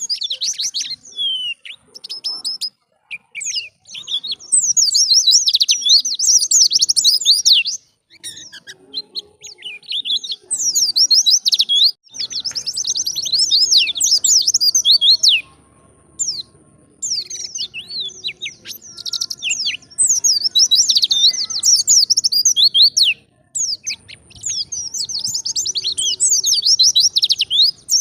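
White-eye (pleci) singing in the wild 'ngalas' style: rapid, high twittering phrases of a few seconds each, broken by short pauses.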